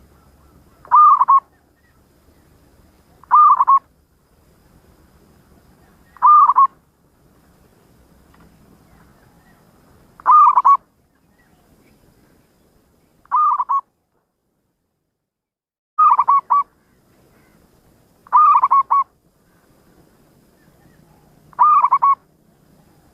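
Zebra dove (perkutut) cooing: eight short coo phrases a few seconds apart, each with a quick run of notes, loud and clear.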